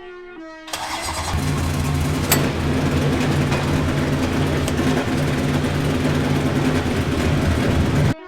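A high-powered drift truck's engine running hard at high revs, its note pulsing over a loud hiss of noise, then cutting off suddenly near the end. A brass music phrase ends just before the engine comes in.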